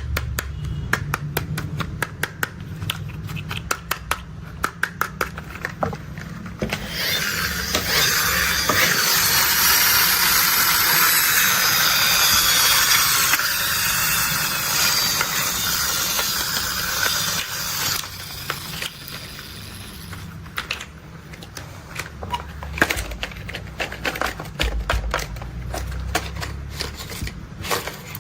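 Toy construction vehicles being handled: a run of quick light clicks and taps, then about ten seconds of continuous scraping, rattling noise from around seven seconds in, then scattered taps again. A steady low hum runs underneath.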